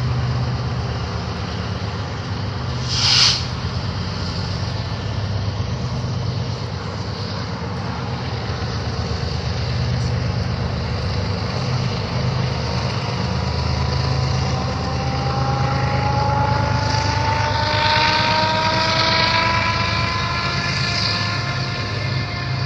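Train's diesel locomotives running with a steady low rumble. There is a short burst of hiss about three seconds in, and a whine that rises slowly in pitch over the last third.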